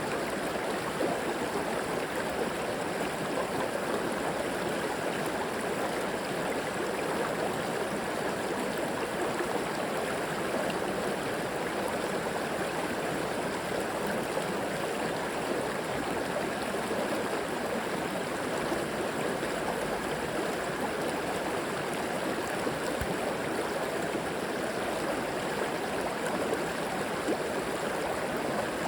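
River water flowing over stones in a steady rushing babble with gurgling, even and unbroken.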